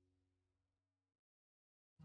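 Near silence: the last of the background music fades out, then digital silence.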